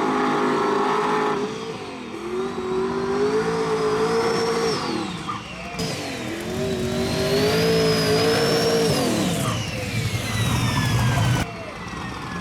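Drag race car engine pulling hard down the track: its pitch climbs through the revs, drops sharply at a gear change about five seconds in, then climbs again, with a thin high whine from the forced induction rising and falling alongside it.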